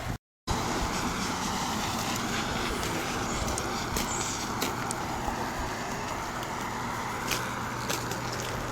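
Steady background noise like distant road traffic or wind, with a faint low hum and a few faint clicks. It is cut off by a brief dropout about a quarter second in.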